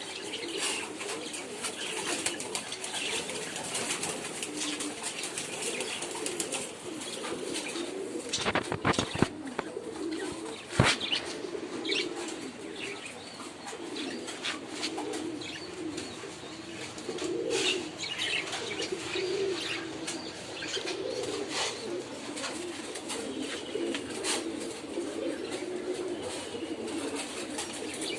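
Pigeons cooing steadily, with high bird chirps throughout and a few sharp flutters or knocks about eight to eleven seconds in.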